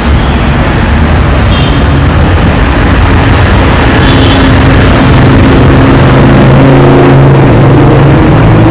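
Car engine running loudly amid road noise, its low drone growing stronger about halfway through.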